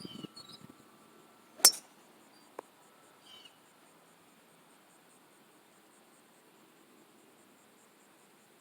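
A single sharp clink about a second and a half in, followed by a much fainter click a second later.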